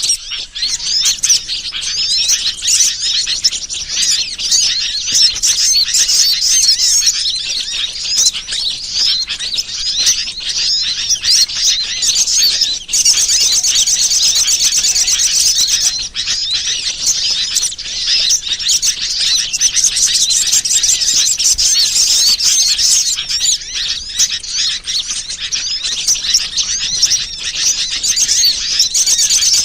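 Bird-lure (pikat) recording: a dense, loud chorus of high, rapid bird chirps and calls with no pause, turning to fast, evenly repeated trills about halfway through and again near the end.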